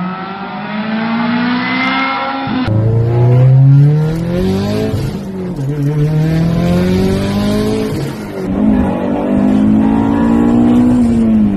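Vehicle engine revving, its pitch rising and falling with each rev, in a few spliced clips with abrupt cuts about three seconds in and again about eight and a half seconds in.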